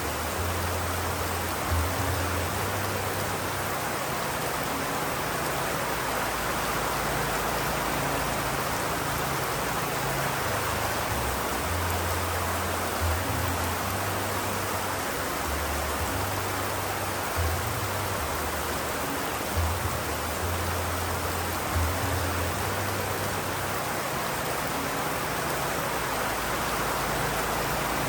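Steady, even rain, with a low rumble that comes and goes underneath it.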